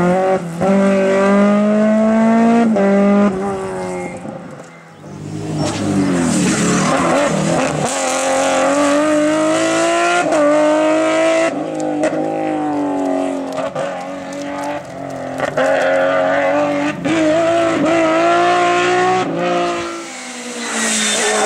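Race car engine at high revs, accelerating hard through the gears: the pitch climbs again and again and drops sharply at each upshift. It eases off briefly about four seconds in, then pulls through another string of shifts.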